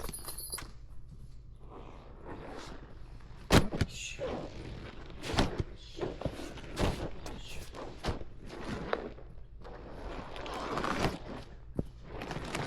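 Irregular knocks and thuds of gear being handled, with rustling between them; the loudest knock comes about three and a half seconds in, and a longer rustle near the end.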